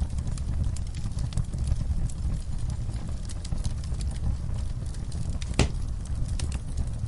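Wood fire in a fireplace crackling: a steady low rumble of burning with many small snaps, and one louder pop about three quarters of the way through.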